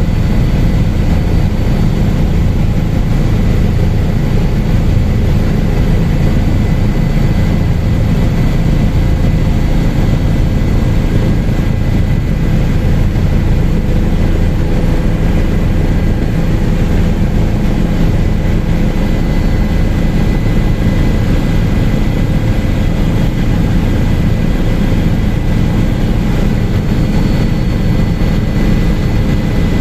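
Helicopter in flight: a loud, steady drone of rotor and engine, with a thin, steady high whine over it.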